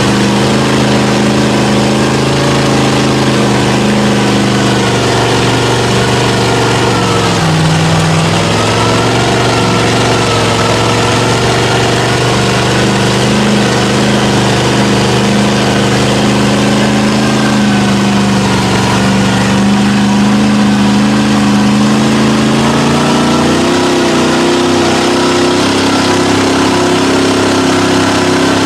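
Off-road truck engine running steadily, its pitch dipping briefly about seven seconds in and rising near the end.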